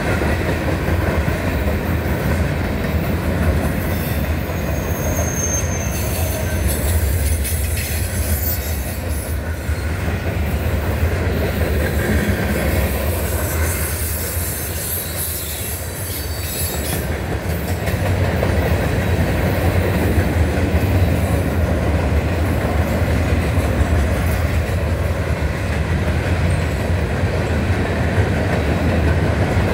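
Freight train cars rolling steadily past, a continuous low rumble of steel wheels on rail with clacking over the joints. A high-pitched wheel squeal rises over it through the first half.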